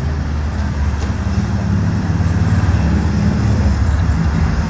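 Road traffic: a motor vehicle's engine running close by, giving a steady low rumble.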